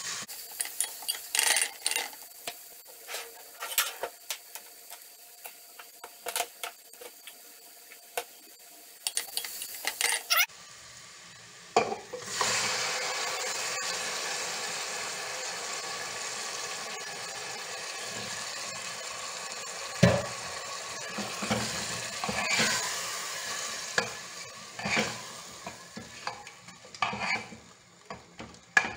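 A spoon stirring and scraping diced onion and bell pepper sautéing in oil in a pressure cooker, with a faint sizzle and frequent clicks against the pot. About twelve seconds in, a much louder steady sizzle starts as chicken hearts go into the hot pan, and the spoon keeps clinking as they are stirred.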